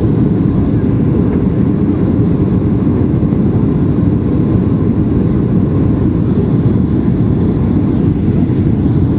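Cabin noise inside a Boeing 737-800 on approach: a steady low rumble of its CFM56-7B engines and the airflow over the fuselage.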